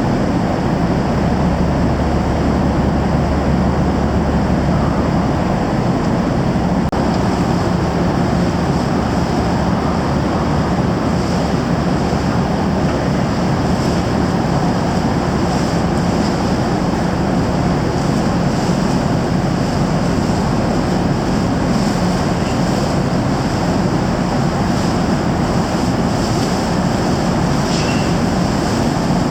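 Steady running noise of a large car ferry underway: a constant low engine drone under a rushing wash of water and wind.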